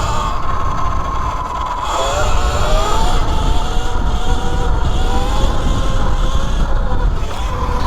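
E Ride Pro SS 3.0 electric dirt bike's motor whining while riding. The whine rises in pitch about two seconds in as the bike speeds up, then holds fairly steady, over heavy wind rumble on the microphone.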